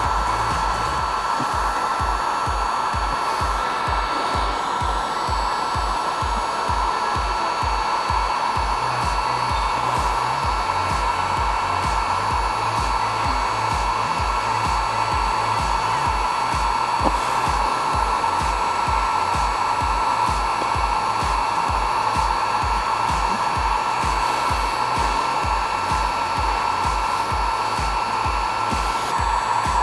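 Steady whooshing blower noise, with a regular low beat pulsing underneath.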